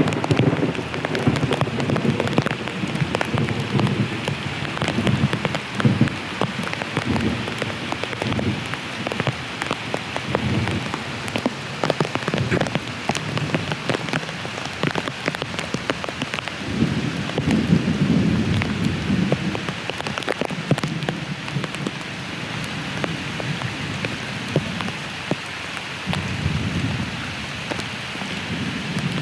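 Heavy rain falling steadily, a dense hiss of countless individual drops striking a surface. Low rumbles swell up twice, about two-thirds of the way through and near the end.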